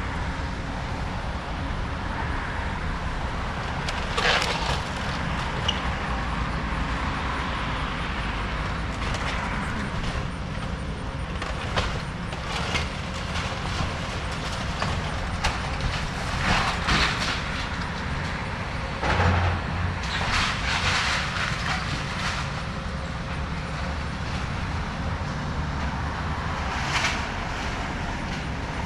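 Excavator engine running steadily while the house is torn down, with several short bursts of crunching and crashing debris, the loudest about four seconds in and again around seventeen to twenty-one seconds in.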